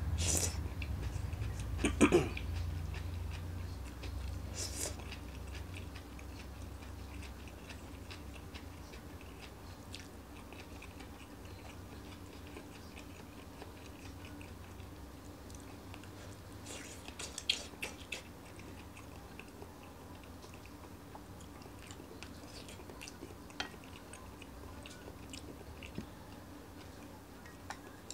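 A person chewing and eating stir-fried lettuce and fried tofu, with a few sharp clicks and crunches: the loudest about two seconds in and a short cluster a little past halfway.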